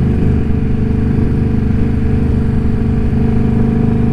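Indian Scout Bobber's V-twin engine running steadily while the motorcycle cruises along the road.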